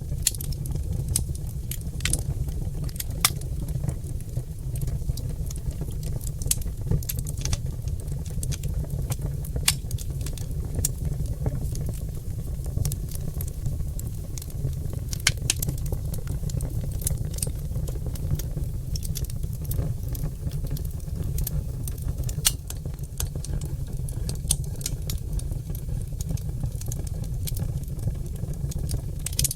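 Oak logs burning in a fireplace, crackling and popping: frequent irregular sharp pops over a steady low rumble from the fire.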